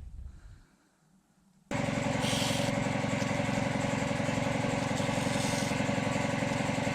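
A motor starts suddenly at full speed about two seconds in and runs steadily with a fast, even pulse.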